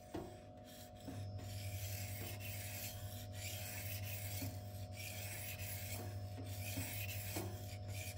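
M390 steel blade of a Twosun TS264 folding knife being stroked back and forth on a whetstone, a steady rhythmic scraping that starts about a second in after a few light clicks. The strokes are blending in the scratch pattern on the edge.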